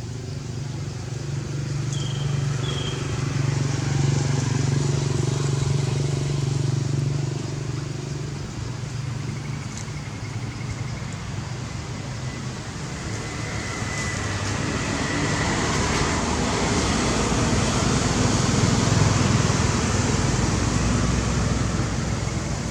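A motor vehicle's engine running, with a low hum that swells louder twice.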